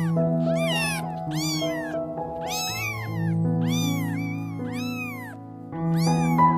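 A cat meowing over and over, short rising-and-falling meows about one every second, with a brief pause near the end, over soft background music with long held notes.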